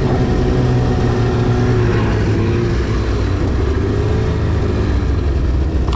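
A 2010 Arctic Cat CFR 1000 snowmobile's two-stroke twin engine running under way at a fairly steady speed. Its pitch dips and rises slightly from about two seconds in.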